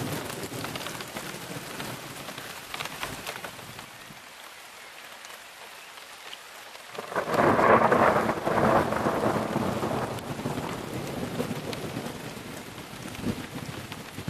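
Rain falling steadily; about halfway through, a loud clap of thunder breaks in and rumbles away over several seconds.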